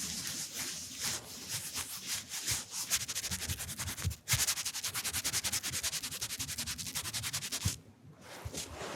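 Very fast rhythmic rubbing strokes wiping close to the microphone, about ten a second, in ASMR-style cleaning. The rubbing stops briefly about four seconds in, then goes quiet near the end.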